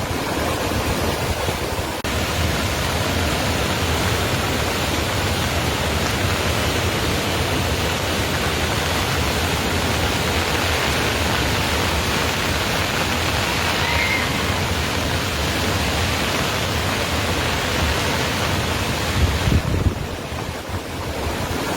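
Tawi river in spate after heavy rain: a steady rush of fast-flowing floodwater, with a few brief low thumps near the end.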